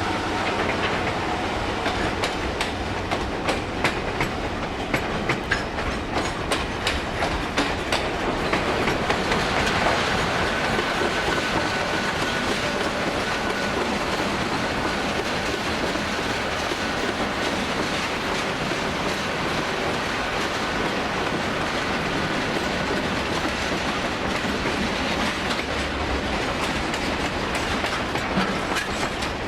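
Freight train wagons rolling past, with a rapid clacking of wheels over rail joints for the first several seconds, then a steady rolling rumble. A faint thin high squeal runs for a few seconds in the middle.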